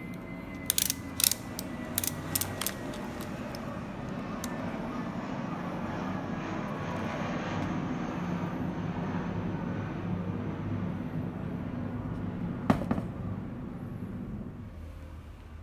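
Cordless battery grass trimmer running with a steady hum that swells a little toward the middle and eases off near the end. A cluster of sharp clicks comes in the first few seconds, and one more near the end.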